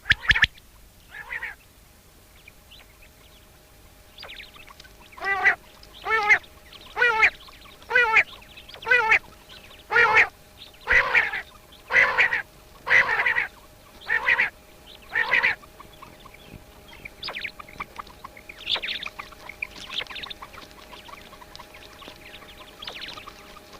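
A bird calls in a series of about a dozen short, harsh, honking calls, roughly one a second, starting about five seconds in. Fainter, higher calls follow near the end.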